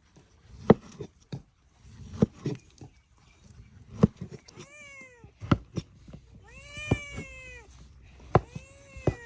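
A cat meowing several times in the second half, one meow longer than the others. Sharp knocks come every second or two throughout and are louder than the meows.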